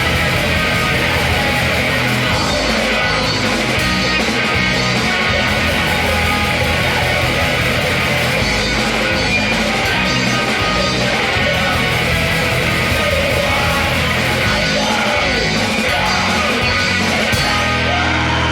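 A heavy rock band recording, full band playing loud and steady with guitars. Near the end the band drops out and a low sustained drone is left.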